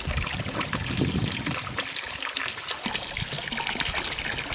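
Steady trickle of running water, dotted with scattered crackles and a few soft knocks.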